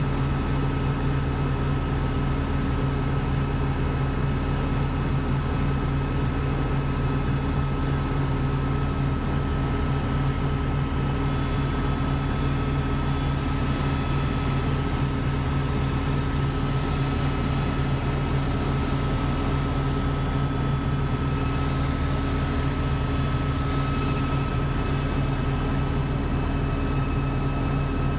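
Helicopter in flight: a steady rotor and engine drone with a constant high whine over it.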